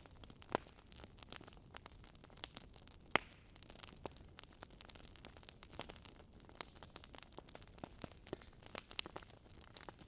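Wood fire burning in a fireplace, crackling steadily with irregular sharp pops; two louder pops come about half a second in and about three seconds in.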